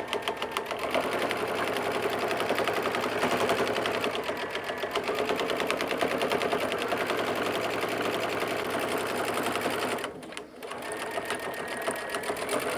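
Sewing machine stitching a half-inch side seam on a cotton pouch in a fast, even run of needle strokes. The stitching stops briefly about ten seconds in, then starts again for a short final run.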